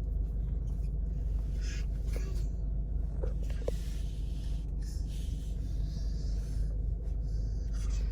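Steady low rumble of a car idling, heard from inside the cabin, with a few faint brief sounds over it.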